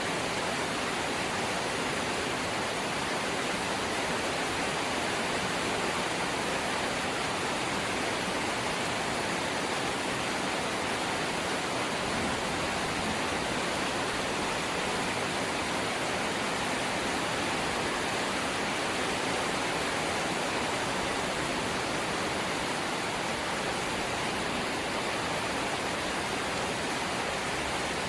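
Light rain falling steadily: an even, unbroken hiss with no single drops or other events standing out.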